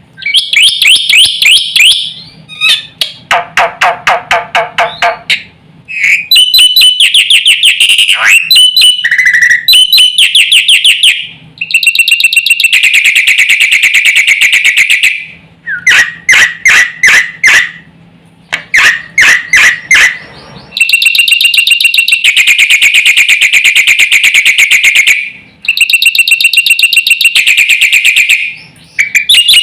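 Black-winged myna (jalak putih) singing loudly: a series of phrases a few seconds long made of fast repeated harsh notes, rattles and chatters, with short pauses between them.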